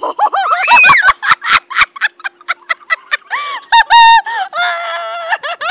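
Seagulls squawking over and over, their calls arching up and down in pitch, with quick repeated notes and one longer held call near the end. Short sharp clicks run between the calls.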